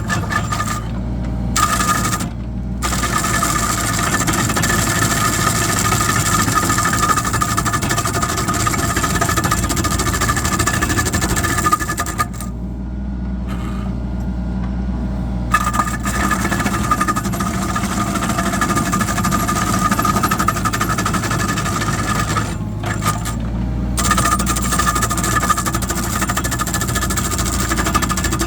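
A mini excavator's drum cutter attachment grinds and chips concrete: a dense, rough grinding noise over the steady diesel engine. The grinding breaks off briefly several times, longest for about three seconds near the middle, while the engine keeps running.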